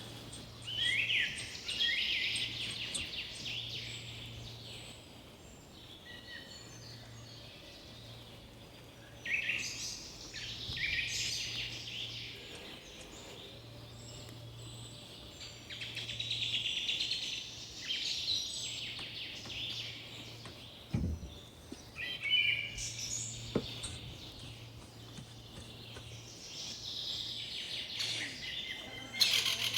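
Birds singing in bright chirping phrases that come every few seconds, with a faint low hum that comes and goes underneath and a couple of soft knocks about two-thirds of the way through.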